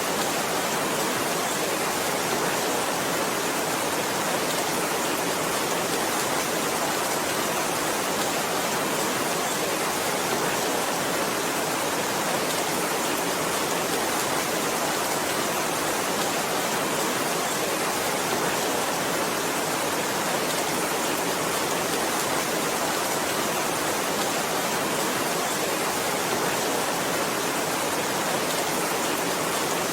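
Heavy rain falling as a steady, even hiss, without let-up or single drops standing out.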